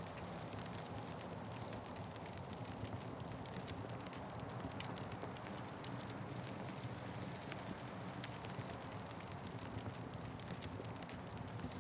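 Wood fire crackling steadily, with many small irregular pops and snaps over a low, even rumble of the flames.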